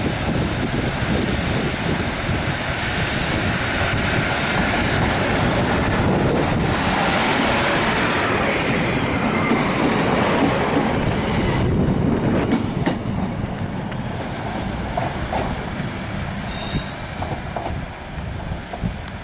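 Northern Class 156 Sprinter diesel multiple unit pulling out and running past, its Cummins diesel engines working and wheels clattering over the rails, with high wheel squeal. The sound falls away sharply about twelve seconds in, and brief squeals follow near the end.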